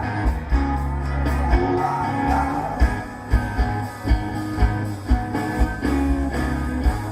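Live rock band playing: electric guitar, bass and a drum kit keeping a steady beat.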